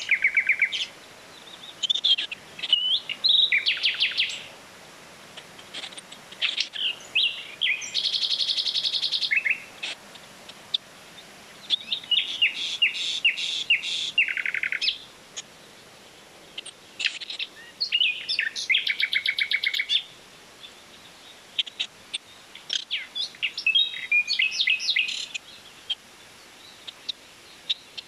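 Songbirds singing: repeated phrases of rapid trills and chirps, each lasting a second or two, recurring every few seconds.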